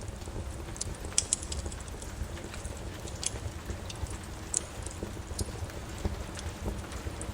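Wood fire crackling in a fireplace, with irregular sharp pops, over a steady hiss of falling rain.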